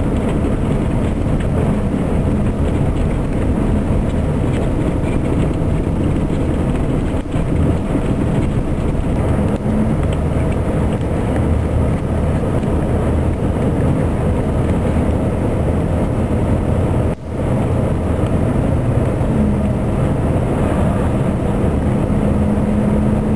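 Vehicle driving through a snowstorm: steady engine drone mixed with road and wind noise, the engine hum fading and returning, with a brief dropout about two-thirds of the way through.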